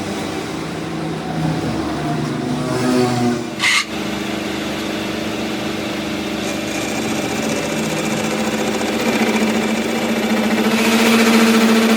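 A workshop machine running with a steady hum, with a single sharp knock just under four seconds in. It grows louder and gains a hiss near the end.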